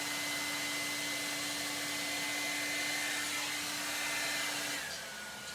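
An 1800-watt ionic hair dryer blowing steadily with a motor whine. About five seconds in, the whine drops in pitch and the blowing gets a little quieter.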